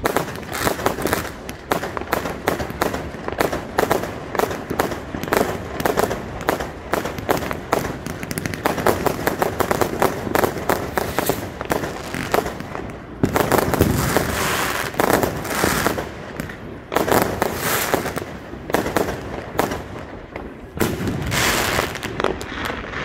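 Many fireworks going off at once: a dense run of bangs and crackling, with louder clusters of bursts about halfway through and again near the end.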